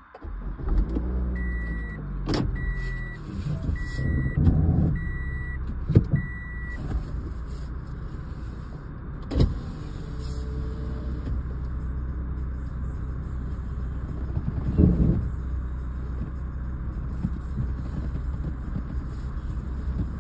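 A car driving, heard from inside the cabin: a steady low engine and road rumble. Near the start a warning chime gives five short evenly spaced beeps, and a few sharp knocks sound in the first ten seconds.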